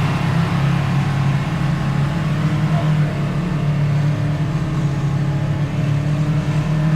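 Side-by-side UTV engine running at a steady, even pace while driving along a trail.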